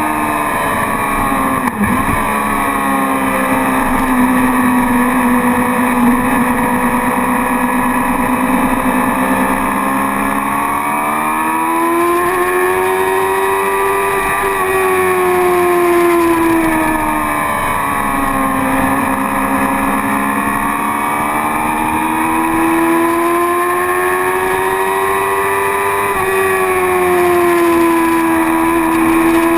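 Motorcycle engine running hard at track speed, its pitch rising and falling slowly several times as the rider works the throttle through the corners, with wind rush over it. A brief knock and a sudden pitch drop come about two seconds in.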